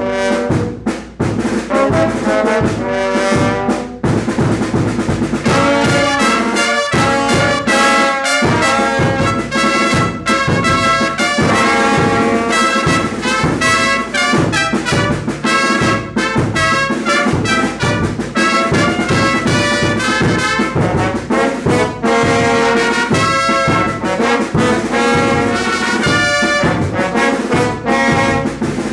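Mexican banda ensemble playing, with trumpets and trombones carrying the melody over a steady pulsing beat.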